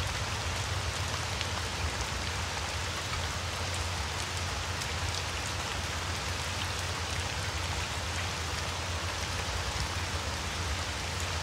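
Steady rain falling, with faint scattered drop ticks, over a low steady rumble.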